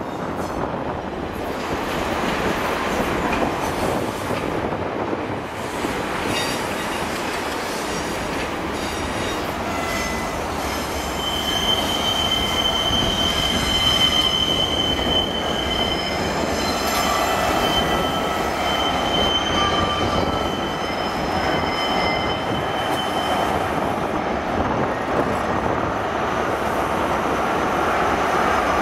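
First Great Western High Speed Train (Class 43 power car with Mark 3 coaches) rolling past with a steady rumble. A high, thin wheel squeal rises in the middle and fades away near the end.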